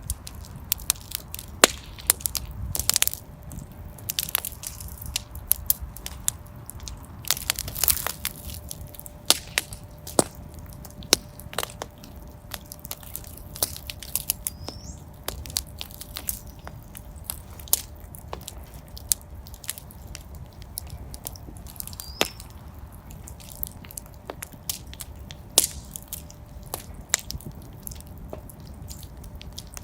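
Real fireplace fire crackling: irregular sharp pops and snaps of varying loudness over a steady low rumble of the flames, with a few faint brief high whistles.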